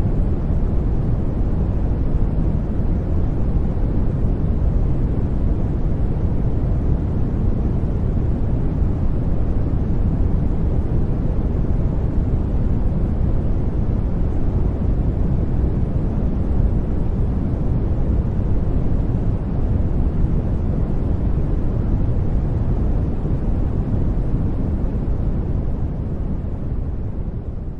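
Steady noise track labelled white noise, playing as a sleep background: an even, deep rushing hiss, much stronger in the bass than the treble. It starts to fade out near the end.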